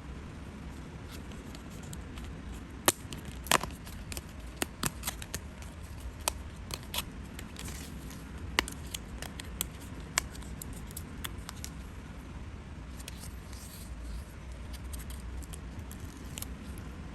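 Scissors snipping paper: a run of sharp, irregular snips over the first two-thirds, followed by softer rustling of paper. A steady low hum sits underneath.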